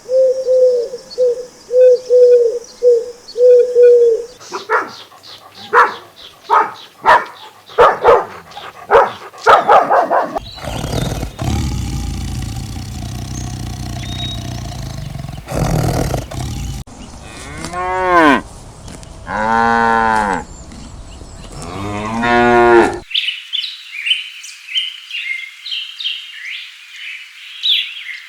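A run of farm animal calls edited together, led by cattle mooing: three long moos with a gliding pitch past the middle. Before them come short repeated calls and a quick series of sharp calls; near the end there is high-pitched chirping.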